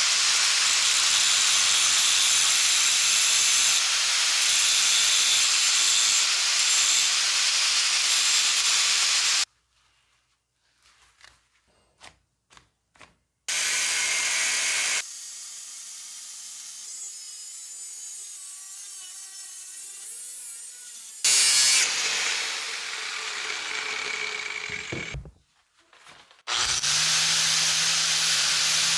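A power tool grinding or sanding in several separate bursts, with short quiet gaps holding a few light knocks; one run ends with the motor winding down.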